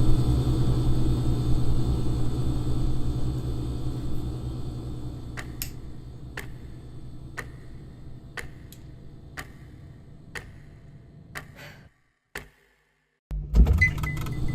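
A clock ticking about once a second over a low hum that fades away. Then a moment of dead silence, a single knock, and room sound coming back.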